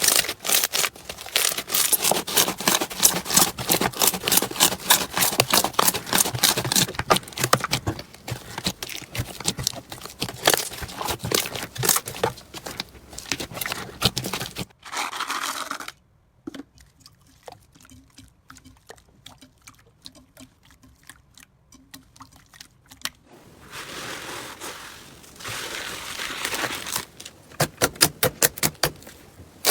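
Slime being squeezed, pressed and poked by hand, making dense crackling and clicking. It goes much quieter about halfway through, with only faint scattered pops, and loud quick clicks return near the end.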